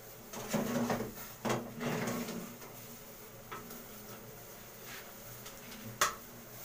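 Perforated metal spatula scraping and knocking against an aluminium cooking pot and a plate while boiled instant noodles are lifted out. There are several scrapes and clatters in the first couple of seconds and one sharp knock near the end.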